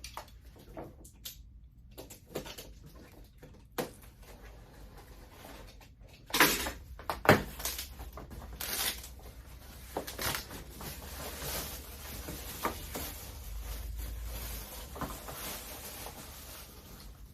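Cardboard fireworks packaging being handled: rustling and scraping with scattered knocks, and a few louder sharp thumps about six to nine seconds in as a boxed rocket is taken out of its case.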